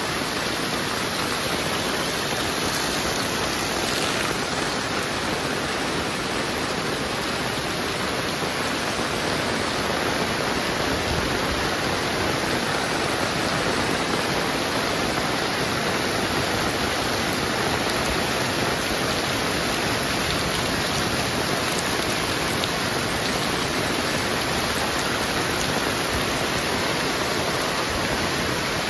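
Heavy rain falling steadily: a dense, even hiss of rain with no breaks.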